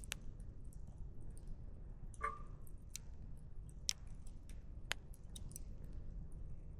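Wood fire crackling: irregular sharp pops and snaps from burning firewood, a handful of louder ones about a second apart, over a low steady rumble.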